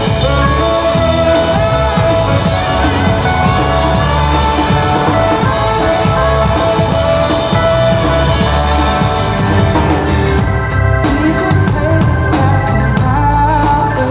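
Live band playing a rock song, with a drum kit keeping a steady beat under sustained melody lines.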